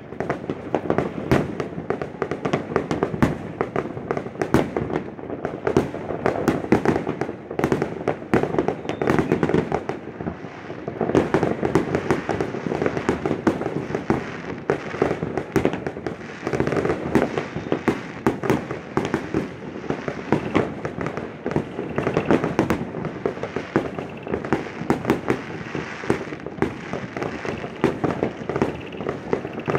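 Fireworks going off continuously: a dense, unbroken run of cracks and bangs with no pauses.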